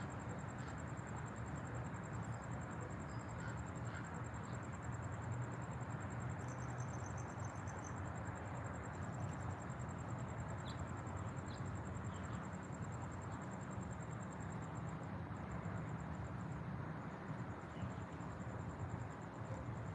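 Outdoor ambience: an insect, likely a cricket, keeps up a steady high trill over a constant low rushing noise, with a brief higher call about six seconds in and a few faint bird chirps.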